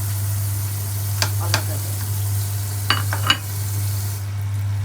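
Sausages frying in cooking oil in a pan, a steady sizzle with a handful of sharp pops or clicks, over a steady low hum. The sizzle eases off near the end.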